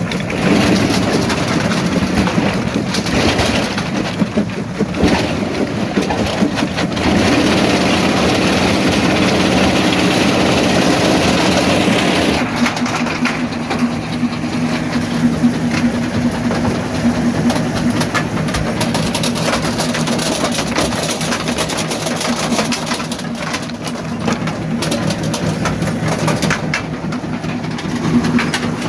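Primary jaw crusher running under load: a steady heavy machine drone with rock cracking and clattering as stones are broken in the jaws. The crushing noise is thickest for the first dozen seconds, then eases to the drone with scattered knocks.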